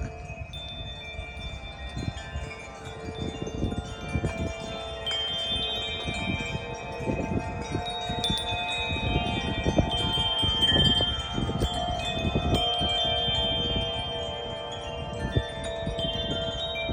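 Chimes of Mars wind chime, its metal tubes (one a bronze tube taken from an older set) struck by the wind and ringing in overlapping, sustained notes that keep changing as the gusts move it. Irregular low rumbles of wind on the microphone lie underneath.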